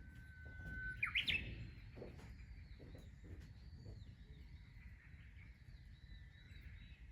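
A bird singing: one held whistled note, then a quick rising-and-falling flourish about a second in, followed by fainter warbling calls.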